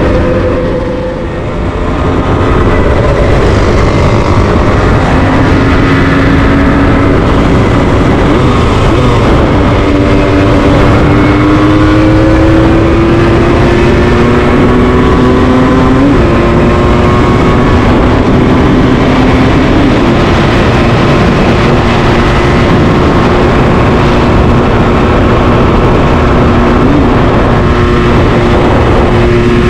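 Motorcycle engine running under way, its pitch slowly rising and stepping to a new level about halfway through, over a steady rushing noise.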